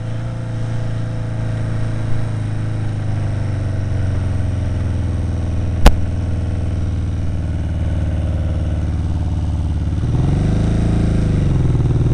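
Kawasaki KZ750 motorcycle engine running under way, its level slowly rising. A single sharp knock about six seconds in, and near the end the engine note rises and falls back.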